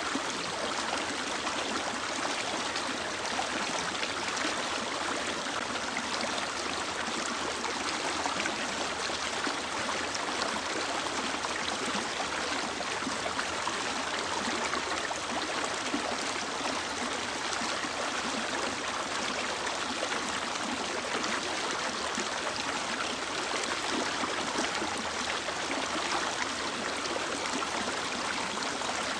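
Mountain stream flowing steadily over rocks, a constant rushing and splashing of running water.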